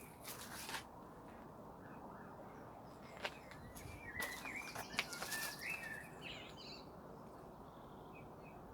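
Faint outdoor background hiss with a small bird chirping and twittering between about four and six seconds in, and a few light clicks.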